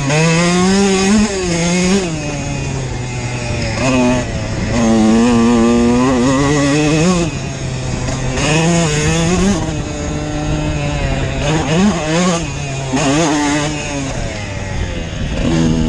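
Dirt bike engine running, revved up and down again and again as the throttle is worked. It holds higher revs for a few seconds in the middle.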